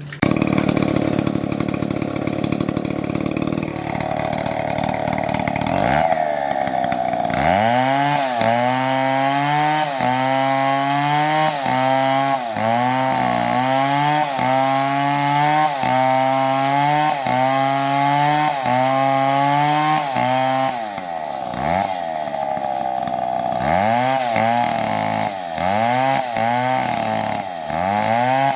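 Stihl MS720 two-stroke chainsaw running at high revs. About seven seconds in it starts cutting wood, its engine note dipping under load and recovering about once a second as the saw is worked through the cut. The pattern breaks off briefly about two-thirds of the way through, then resumes.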